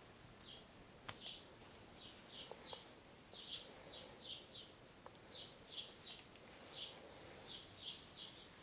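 Bird chirping over and over, short high chirps two or three a second, with one sharp click about a second in.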